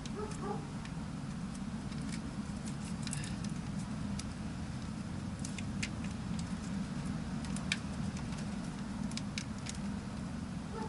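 Scattered small clicks and crackles of hands working on trailer marker-light wiring, over a steady low rumble.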